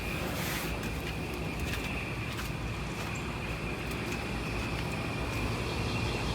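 Large outdoor air conditioning condenser unit running: a steady hum from the fan and compressor, with a faint steady high whine over it.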